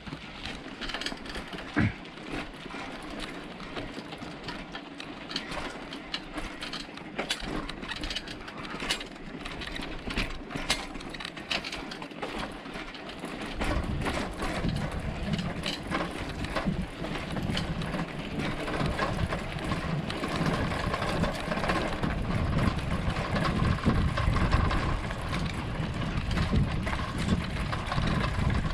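Bicycle rattling and clicking as it is ridden over a rough off-road track. About halfway through a louder low rumble comes in and stays.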